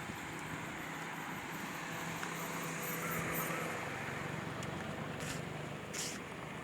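Steady outdoor background noise with a low motor hum that swells a little about a third of the way in and eases off, with a few faint ticks near the end.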